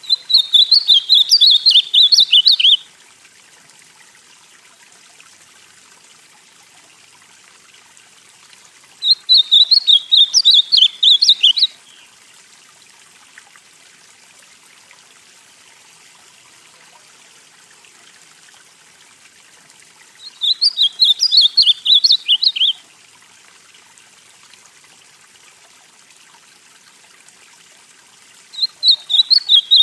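Ultramarine grosbeak (azulão) of the northeastern type singing four short warbled song phrases. Each lasts two to three seconds, and they come about ten seconds apart, over a faint steady hiss.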